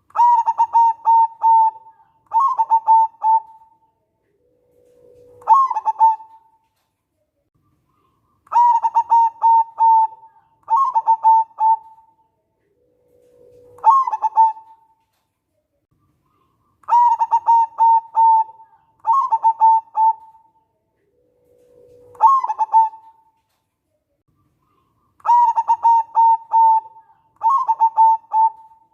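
Zebra dove (local perkutut) singing its cooing song: two bursts of rapid, clipped coos, then a lower note that leaps up. The phrase repeats about every eight seconds, three and a half times in all.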